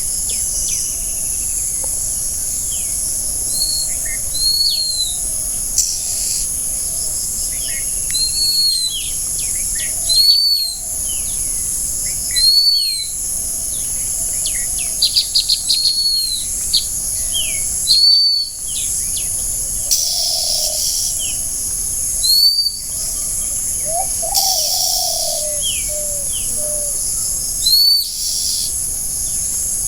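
Forest birds calling, one repeating a short arched whistle every couple of seconds with other chirps in between, over a steady high-pitched insect drone.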